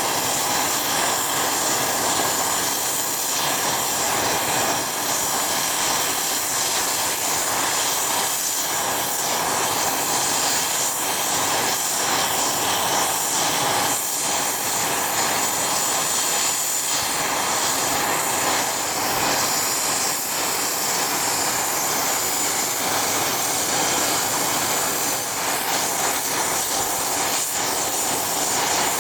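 Private jet's engines running steadily, a constant rushing noise with a faint high whine and no change in pitch or loudness.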